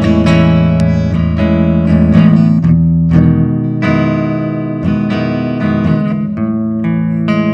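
Electric guitar played through a Digitech RP1000 multi-effects pedal set to its acoustic-guitar simulation preset: a string of picked notes and chords, each ringing on after it is struck.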